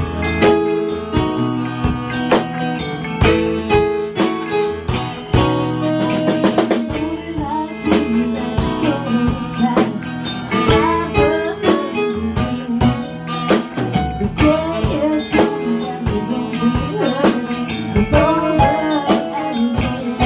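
Rock band playing live: drum kit and electric guitar, with bass.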